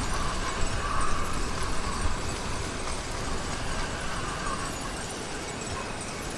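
Steady rushing wind noise and low rumble from riding a motorized bicycle, with no clear engine note, easing off slightly after about three seconds.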